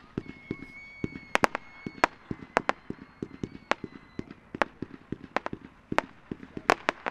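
Dominator 'Breaking News' 500-gram firework cake firing: a fast, uneven run of sharp bangs and pops from shells breaking overhead, over a quicker patter of dull lower thumps. A thin high whistle runs through the first few seconds.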